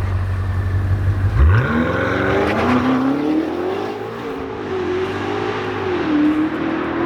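BMW S68 twin-turbo V8 running through a Dinan valved exhaust: a deep low note, then a quick rise in pitch about a second and a half in as it revs, the pitch wavering and settling lower near the end.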